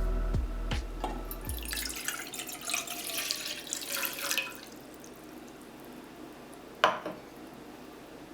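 Water running briefly from a tap into a sink, then one sharp drip near the end.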